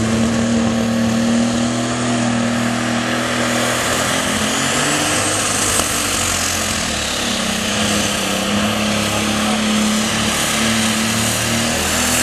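Super stock pulling tractor's turbocharged diesel engine running flat out under load during a pull. The engine note sags about four seconds in and climbs back, with a high turbo whine over it.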